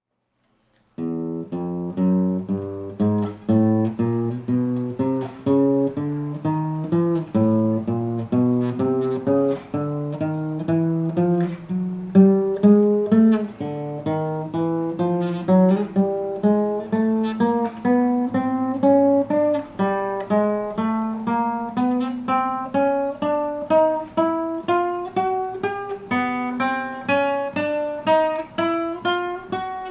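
Acoustic guitar playing single plucked notes one after another, about two a second, climbing step by step up the fretboard. The notes begin about a second in.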